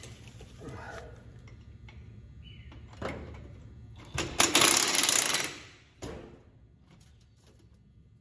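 A power tool runs in one loud burst of about a second and a half, roughly four seconds in, amid scattered clicks and clanks of work on metal parts.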